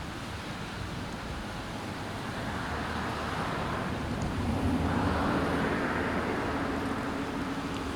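A motor vehicle going by, its engine and tyre noise swelling to a peak midway and then easing off over a steady background rush.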